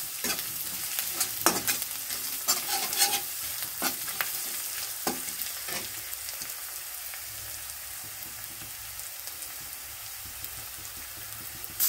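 Ginger and garlic paste sizzling steadily in hot oil in a metal kadai. A metal spatula scrapes and taps against the pan during the first half, then only the sizzle goes on.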